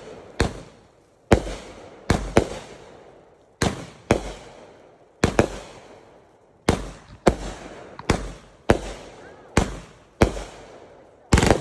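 Fireworks going off: a string of about fourteen sharp bangs, one to two a second at uneven spacing, each dying away over a fraction of a second.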